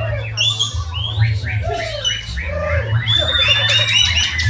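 Several white-rumped shamas (murai batu) singing at once, a dense, overlapping run of whistles, chirps and harsh rasping notes with no break, over a steady low hum.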